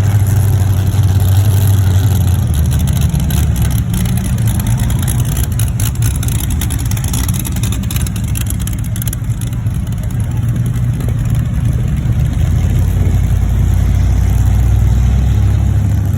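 Truck engine and road noise while driving, a loud steady low rumble that drops lower about two and a half seconds in.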